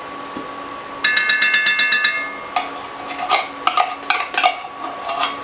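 A metal spoon scraping and tapping condensed cream of mushroom soup out of its can into the pot. It starts about a second in with a quick run of ringing metallic clicks, followed by a string of irregular knocks. A steady faint hum runs underneath.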